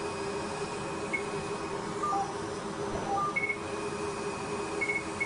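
Short electronic beeps from a Fraxel Repair CO2 laser system: a few high-pitched single beeps and a couple of lower ones at irregular intervals. They sound over the machine's steady hum.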